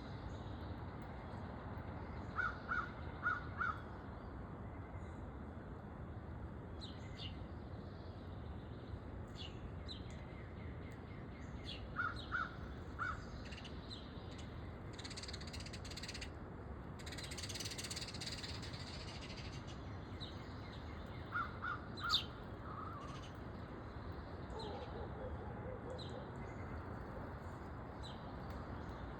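A crow cawing in runs of three or four short calls, three times, over faint high chirps from small songbirds. A soft rushing hiss comes up about halfway through.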